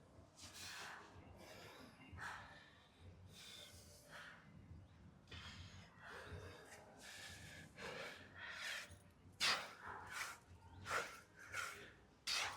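A man breathing hard from exertion: sharp, noisy gasps and exhales, coming faster and louder in the second half.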